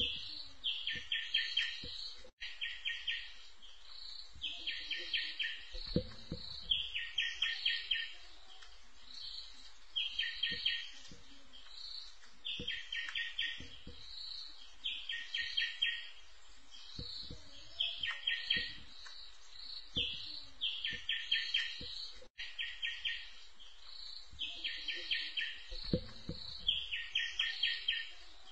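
A bird calling over and over: quick bursts of four to six rapid, ringing notes about every two seconds, with higher single notes between them. A few faint low thumps are mixed in.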